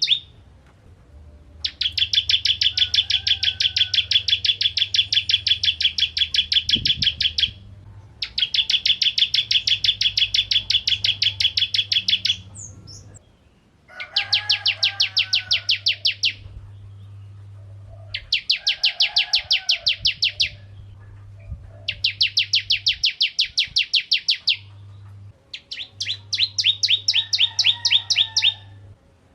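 Ciblek kristal, a prinia, singing: bouts of rapid, evenly repeated sharp chirps, each bout a few seconds long, broken by short pauses, over a faint low hum.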